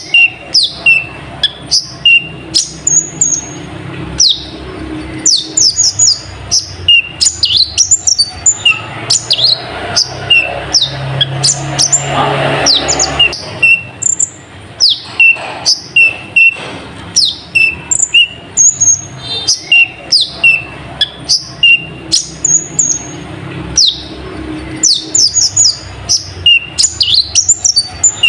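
A kolibri ninja sunbird singing without pause: a fast run of sharp, high, down-slurred chirps mixed with short clipped notes.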